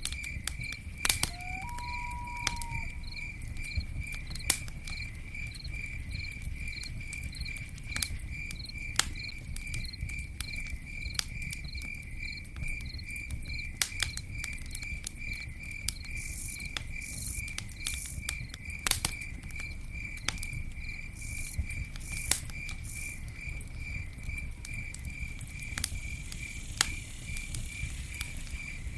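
Campfire burning with a low steady rumble and scattered sharp crackles and pops, the pops the loudest sounds. An insect chirps in an even pulse, a little over twice a second, all through. A higher insect buzzes in short spells about halfway through.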